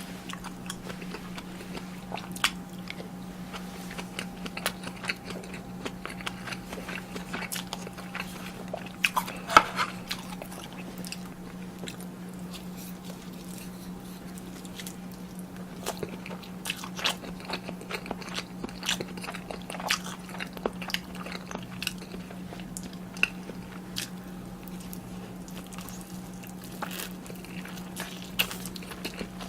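Close-miked eating of tuna kimchi stew: crunchy bites and chewing with many short sharp clicks, the loudest about ten seconds in, over a steady low hum.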